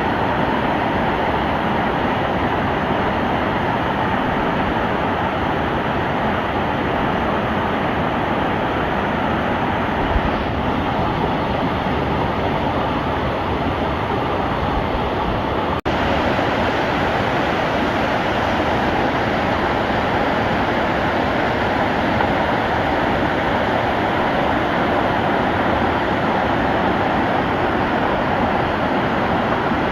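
Loud, steady rush of a whitewater mountain stream, an even roar of water with no let-up, with one very brief dropout about halfway through.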